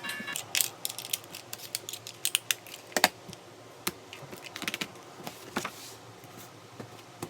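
Typing on a computer keyboard: irregular clicks of keys being struck, several a second, with short pauses between runs.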